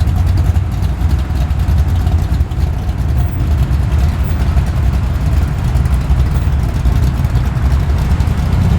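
Low, steady rumble of a Ford Falcon GT's V8 engine idling as the car creeps in at walking pace.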